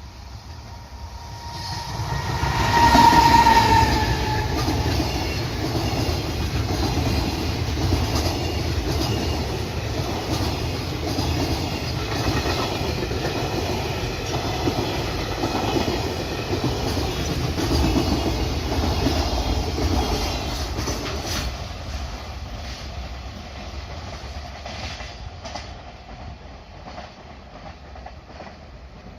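Freight train passing, its wagons rumbling and clacking over the rail joints. A brief high tone sounds about three seconds in at the loudest moment, and the train fades away over the last several seconds.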